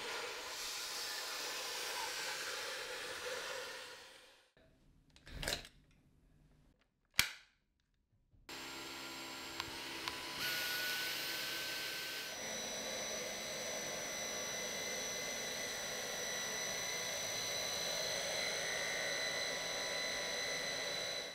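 Dyson Gen5outsize cordless vacuum cleaner running, then shutting off about four seconds in. Two sharp clicks follow, then the motor starts again. Its note changes twice and settles into a steady whine.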